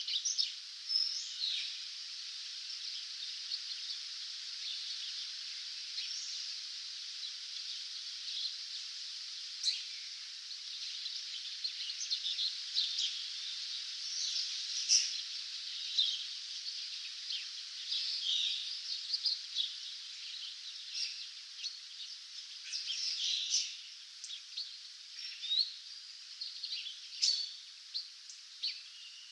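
Dawn chorus of several songbirds, with short chirps and trills overlapping irregularly over a steady hiss.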